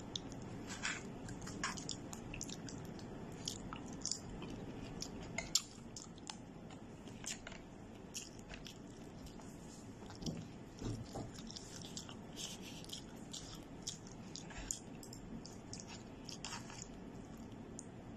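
Close-up eating of crispy fried chicken: chewing and biting with many small, irregular crunches and clicks, including plastic fork and spoon tapping the food box.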